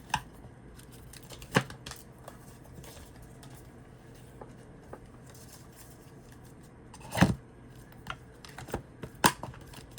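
Tarot cards and deck boxes being handled: scattered light taps and clicks, with a louder rustle and knock about seven seconds in and another sharp tap a couple of seconds later.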